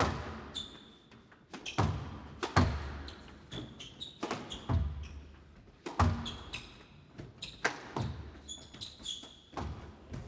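Squash rally: the ball cracks off rackets and the court walls in a string of sharp impacts, roughly one every second or so, with short squeaks of players' shoes on the court floor between the shots.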